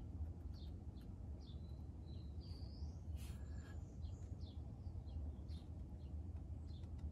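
Faint bird chirps, short calls coming a few times a second with one longer gliding whistle about two and a half seconds in, over a steady low hum.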